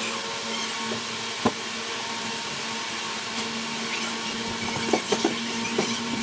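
Steady mechanical hum with a faint low tone, with scattered knocks and clatters.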